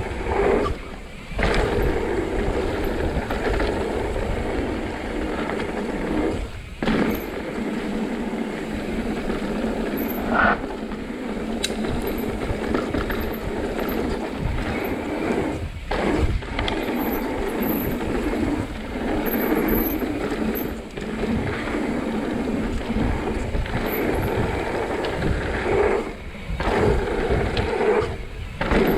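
Mountain bike rolling fast down a rough, rocky trail: tyres rumbling over dirt and rock, the bike rattling, with wind on the microphone. The noise drops out briefly about five times.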